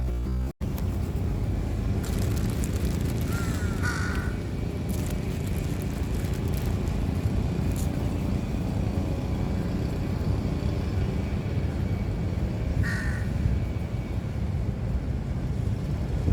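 Two short, harsh bird calls, one about four seconds in and another later on, over a steady low rumble.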